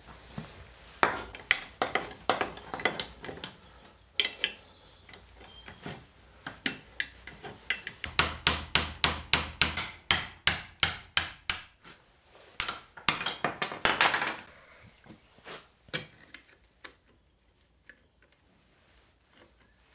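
Hammer blows on a seized Land Rover Series handbrake mechanism as it is stripped down: runs of sharp taps, about three a second, with short pauses between, thinning to a few light clicks near the end.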